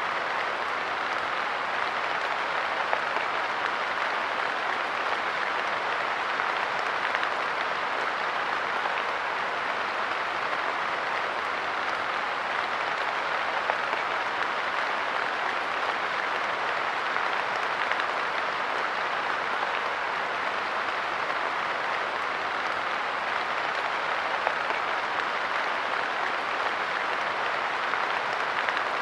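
Steady light rain pattering on a park bench, a dense, even hiss of drops with no let-up.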